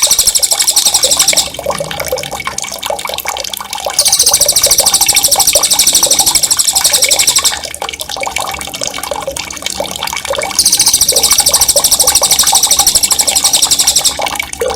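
A songbird's sharp, loud rolling trill (ngerol) of very rapid high notes, given in three bursts of a few seconds each, over steadily bubbling running water.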